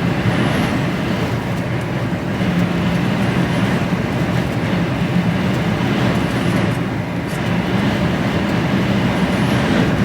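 Steady running noise inside an HGV lorry cab on the move: the truck's diesel engine drones steadily under road and tyre noise.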